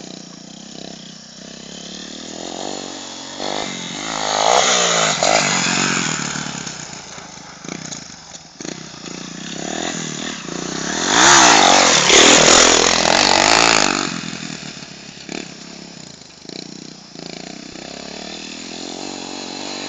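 Motocross motorcycle engines revving and rising and falling in pitch as bikes pass on the track. The loudest passes come about four seconds in and again from about eleven to fourteen seconds in.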